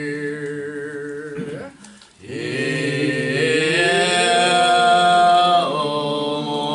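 Church singers singing a slow hymn in harmony, holding long drawn-out notes. They break off briefly about two seconds in, then start the next long phrase.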